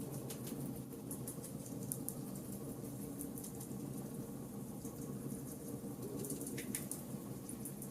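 Burning charcoal crackling: scattered small pops and ticks over a steady low hum, with one louder pop about six and a half seconds in.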